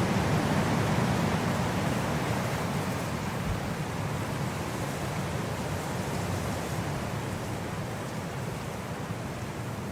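Wind blowing steadily, a deep, even rushing that swells slightly in the first couple of seconds and then slowly eases.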